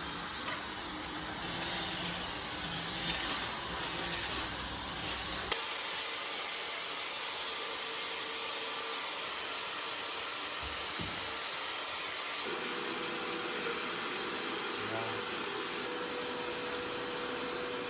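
A vacuum-type cleaner motor running steadily. Its sound changes abruptly about five seconds in and again about twelve seconds in.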